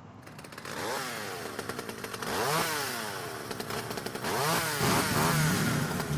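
Small motor revving up and down in three bursts, its pitch sweeping up and falling away each time, over a steady low hum.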